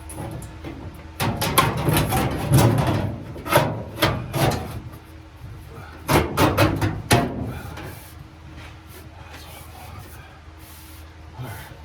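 Two bursts of rapid knocking and scraping, the first lasting about three seconds, the second, a little over a second, starting about six seconds in.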